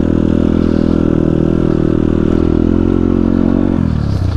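Dirt bike engine running at a steady speed, dropping in pitch briefly near the end as the throttle eases, then picking up again.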